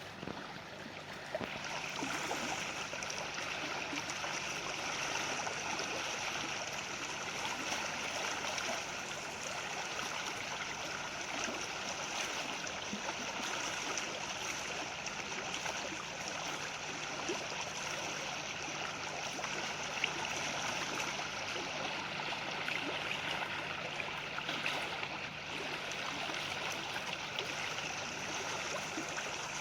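Running water: a stream flowing steadily, with a continuous rushing and gurgling that grows louder about a second and a half in and then holds even.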